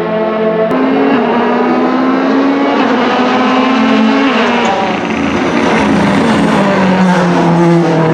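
Ford Fiesta WRC Plus rally car's turbocharged 1.6-litre four-cylinder engine running hard, its pitch climbing steadily and then dropping at gear changes, with a sharp crack about a second in.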